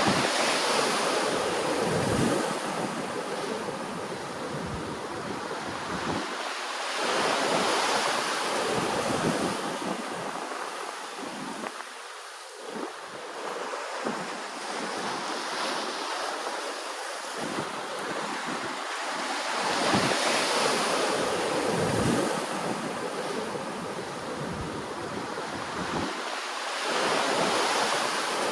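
Ocean waves washing ashore, each surge swelling and fading, about every six to seven seconds.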